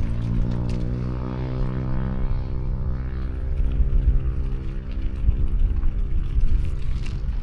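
A motor vehicle's engine running close by, a steady droning note that sags slightly in pitch and gives way to low rumbling traffic noise about halfway through.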